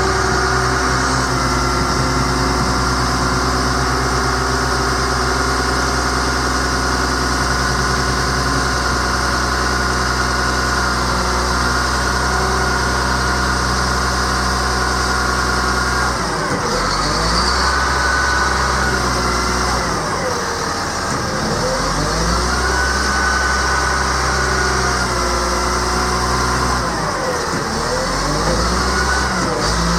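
Caterpillar C7 7.2-litre inline-six turbo diesel running steadily at idle. From about halfway through, its speed drops and climbs back up several times.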